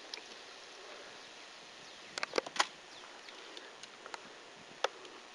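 A few sharp clicks or knocks: a quick cluster of four or five about two seconds in, and a single one near the end, over a faint outdoor background.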